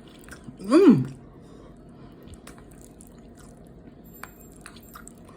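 A short wordless hum of enjoyment, its pitch rising and falling, about a second in, followed by faint scattered clicks and smacks of eating.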